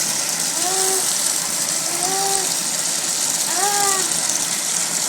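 A person's voice making three short rising-and-falling wails over a steady hiss, like vocal sound effects of something being swept away.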